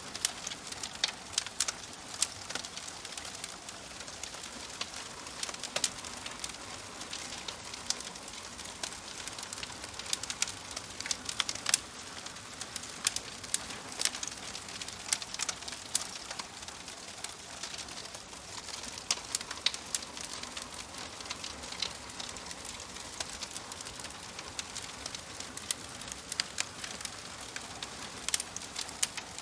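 Fire in a fireplace crackling: a steady soft hiss with frequent, irregular sharp pops and snaps.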